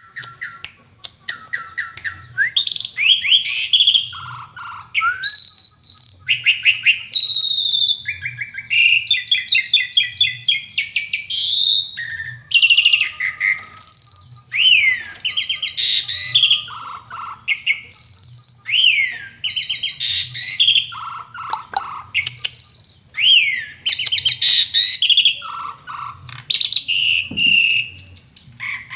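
Asian pied starling (jalak suren) singing in full voice. It gives a fast, varied stream of loud whistles, rapid repeated notes, sweeping slurs and trills with hardly a pause, a song packed with learned imitated phrases and sharp "tembakan" shots.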